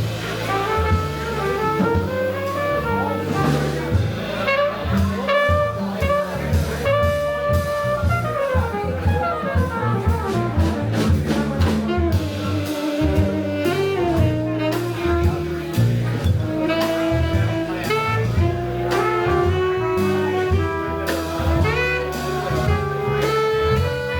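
Live jazz band playing: a winding lead melody over a stepping bass line, with cymbals.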